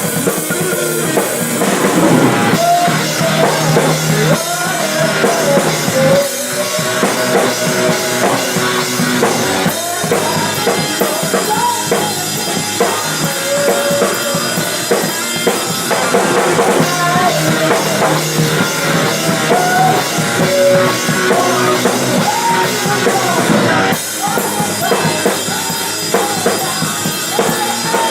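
Rock band playing, with the drum kit up front and the kick drum prominent, under a wavering melodic line.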